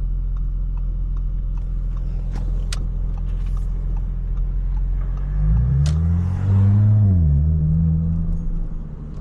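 Audi S5 engine running steadily at low revs, then accelerating with a rising pitch about five and a half seconds in, shifting up near the seven-second mark and settling at a steady lower pitch.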